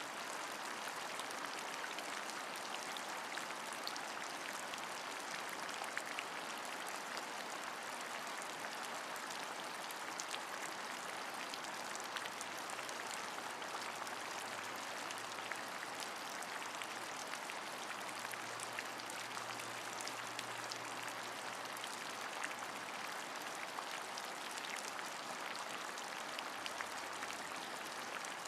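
Steady rain: an even hiss with many small drop ticks scattered through it. A faint low hum comes in about halfway through and fades near the end.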